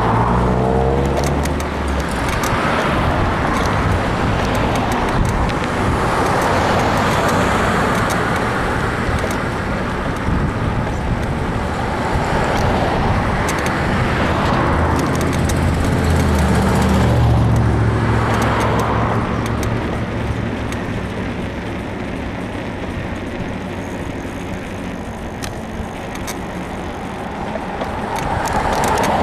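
Road traffic passing a moving bicycle: cars going by one after another, with a deeper engine hum near the start and again around the middle. Short clicks and creaks run through it, fitting the bike's suspension creak, which the rider puts down to a worn frame bushing.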